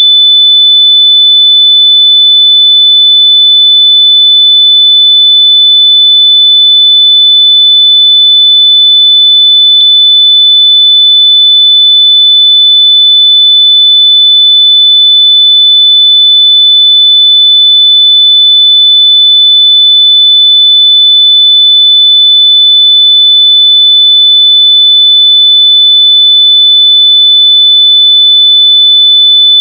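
A continuous high-pitched electronic beep, one pure steady tone, played at full volume so that lost wireless earbuds can be found by ear.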